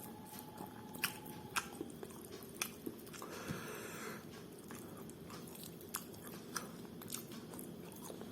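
Close-miked chewing of a mouthful of rice and mutton curry, with scattered soft mouth clicks.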